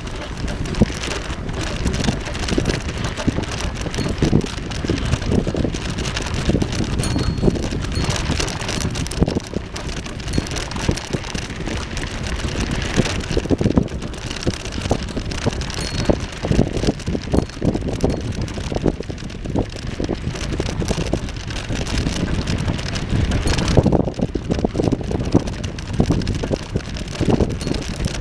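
Wind buffeting the microphone of a moving bicycle, with continuous rough rumble and irregular knocks and rattles from the bike rolling over the path.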